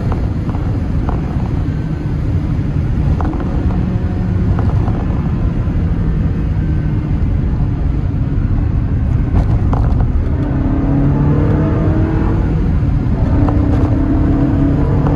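Ferrari 360 Spider's 3.6-litre V8 running on the move, a steady loud drone whose pitch rises about ten seconds in and again near the end.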